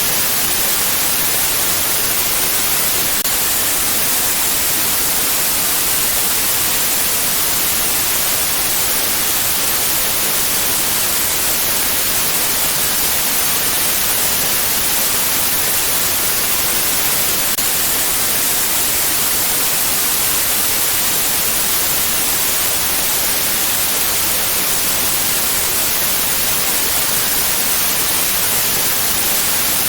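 Steady, fairly loud white noise for baby sleep: an even, unbroken hiss with the most energy in the high frequencies.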